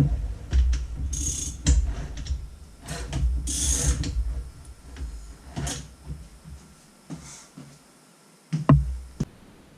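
Metal clicks, clunks and short rasps of hand tools working on a Honda 400EX cylinder head while the cam sprocket bolts are threaded in and the engine is turned over, with one loud knock near the end.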